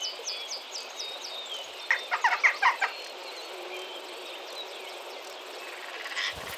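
Birds calling over a steady hiss of outdoor ambience: a quick run of high, falling chirps, then a short burst of harsher, lower calls about two seconds in.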